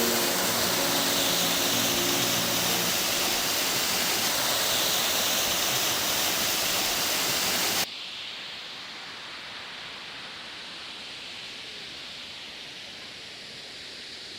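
Waterfall rushing, a loud steady roar of water. About eight seconds in it cuts off abruptly to a quieter steady hiss.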